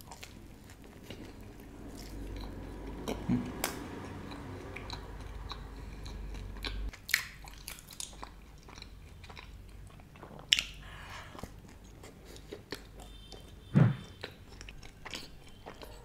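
Close-miked chewing and biting as a person eats pizza crust dipped in cheesy dip, with many sharp crunchy clicks of the mouth. A short low thump sounds near the end.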